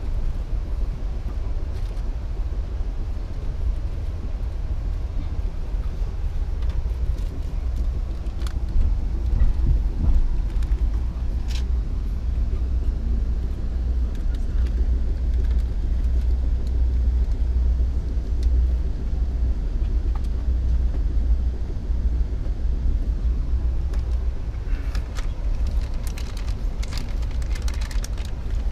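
Passenger train running at speed, heard from inside the coach car: a steady low rumble, with scattered clicks and rattles that cluster near the end.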